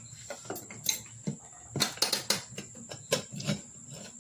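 Irregular light clicks and knocks, about eight in all, from handling a riding-mower tire, its rim and a new inner tube while fitting the tube.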